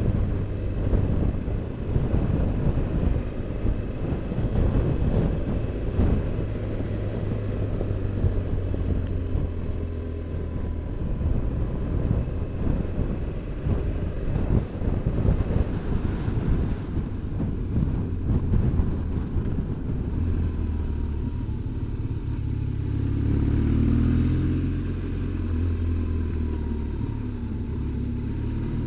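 BMW R1200GS Adventure's boxer-twin engine running under way; the engine note shifts and swells about three-quarters of the way through.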